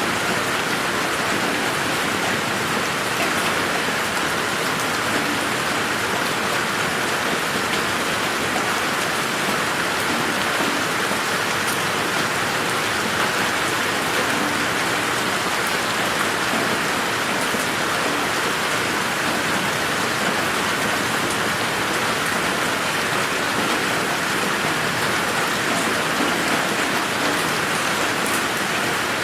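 Steady rain falling on a garden, an even hiss with scattered drops ticking.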